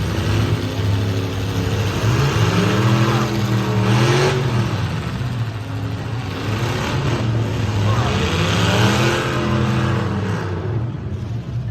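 Demolition derby car engines revving hard, rising and falling in pitch several times over a steady low engine hum as the cars accelerate into hits.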